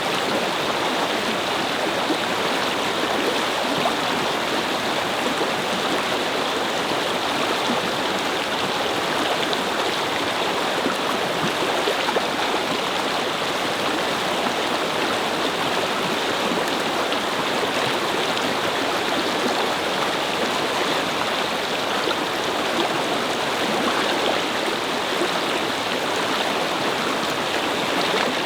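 Shallow brook babbling and flowing steadily over stones, an even rushing splash of running water.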